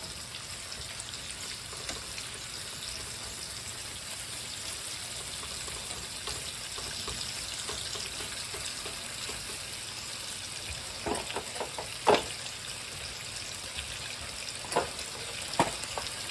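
Steady sizzle of bacon and egg frying in grease in a pan. A few sharp knocks come in the last third, the loudest near the middle of that stretch.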